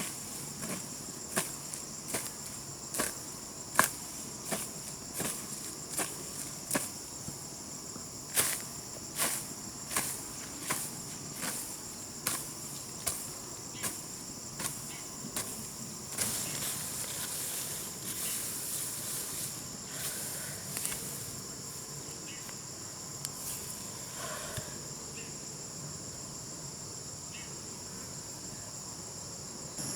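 A garden hoe chopping into grassy ground in steady strokes, a little under one a second, over a steady chorus of crickets. About halfway through the chopping stops and gives way to a few seconds of scraping and rustling.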